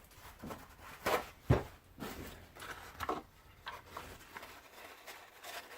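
Handling noises at a workbench: a few light knocks and rubs as the glued plastic part and paper towel are moved about, the loudest pair of knocks a little after a second in.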